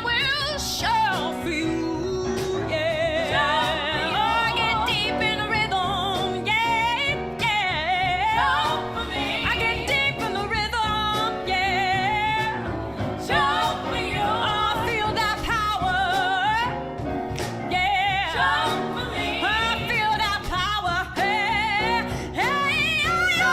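Female lead vocal singing wordless runs with a wide vibrato over a band, in a deep, soulful voice.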